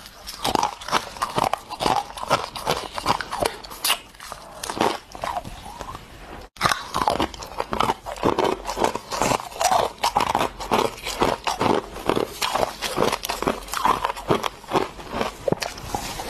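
Ice being bitten and chewed close to the microphone: a dense run of loud, irregular crunches and crackles, broken by a momentary gap about six and a half seconds in.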